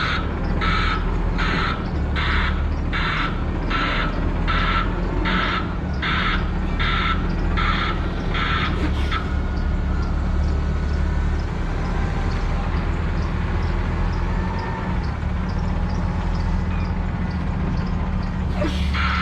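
Harsh electronic warning beeps, about three every two seconds, over the steady low running of a truck's diesel engine. The beeping stops about halfway through and starts again near the end.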